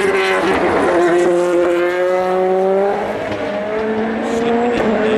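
Race car engine accelerating hard through the gears. Its pitch climbs steadily and drops back at an upshift about three seconds in, then again near the end.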